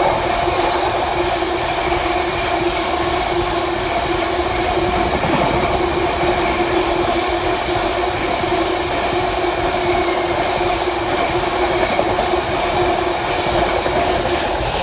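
A freight train of wagons hauled by a Class 66 diesel locomotive rolling through the station, with a steady rumble and a constant whining tone from the wheels; the sound eases off near the end.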